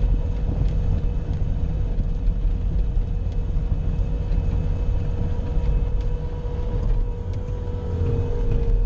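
Bobcat skid-steer loader's engine running steadily while it plows snow with a front blade: a heavy low rumble with a steady whine over it.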